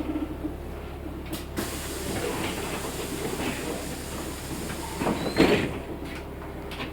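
Interior of a LiAZ 6213.65 articulated city bus: a steady low hum, a sharp click about a second and a half in, then a few seconds of air hiss from the bus's pneumatic system, and a louder clunk about five seconds in.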